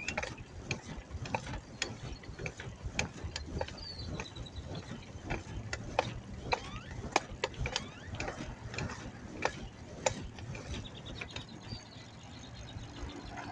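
Bicycle clicking and rattling as it is ridden: a ratchet-like ticking typical of a freewheel hub, with irregular sharp clicks over a low steady rumble.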